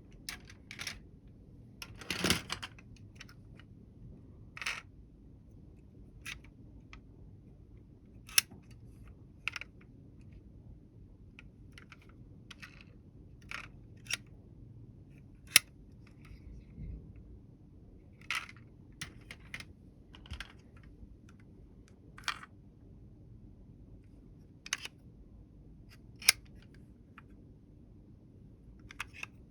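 Irregular sharp clicks and clacks of small hard objects being handled and set down, about twenty over the stretch. There is a longer rattling clatter about two seconds in.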